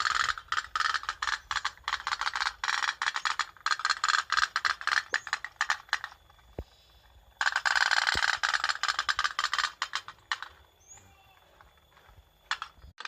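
Rapid, rattling clicking from a tin pop-pop toy boat (kapal othok-othok), in two long runs with a short pause between and a quieter stretch near the end.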